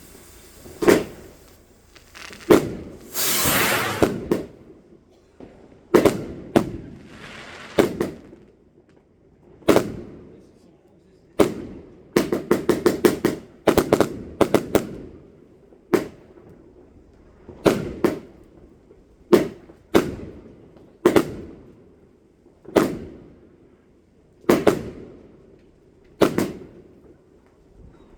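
Fireworks going off: sharp bangs every second or two, each trailing away. A rushing hiss comes about three seconds in, and quick rattling strings of bangs come about twelve seconds in.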